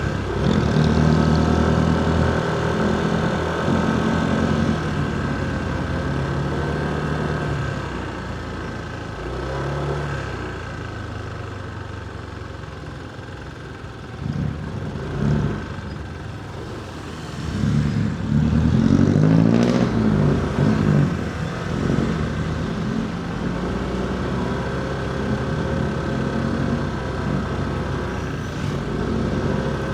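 Motorcycle engine running through city traffic, revving up in pitch as it accelerates several times and easing off in between, with the noise of other traffic around it.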